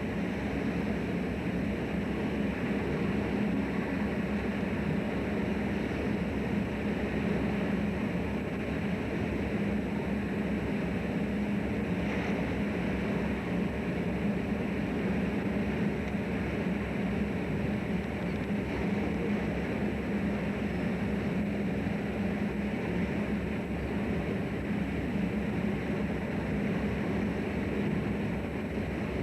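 A fishing trawler's engine running with a steady, even drone and a low hum, heard on board the vessel.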